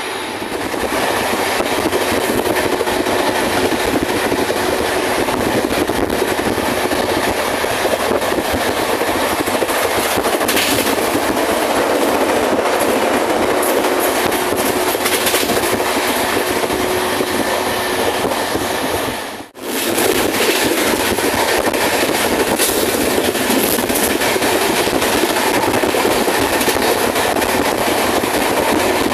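Express train running at speed, heard from inside the coach: a steady, loud running noise of wheels on the rails. The sound cuts out for a moment about twenty seconds in, then resumes.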